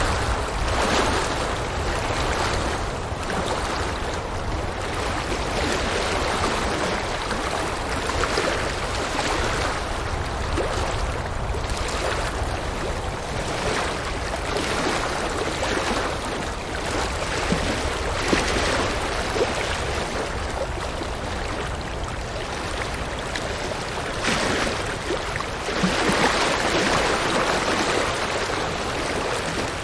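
River water flowing and splashing, a steady rushing that swells and eases every few seconds.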